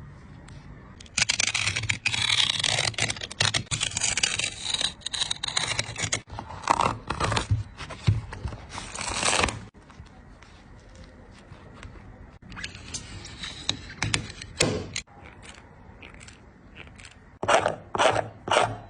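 Scraping, rustling and tearing sounds of a sneaker being handled and pulled apart by hand, in irregular bursts. It is loudest for the first several seconds, quieter for a while, then comes in sharp bursts again near the end.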